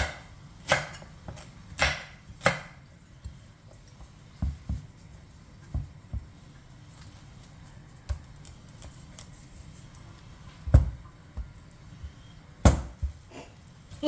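Kitchen knife chopping pumpkin on a cutting board: irregular sharp knocks, several close together at first, then sparse, with two louder chops near the end.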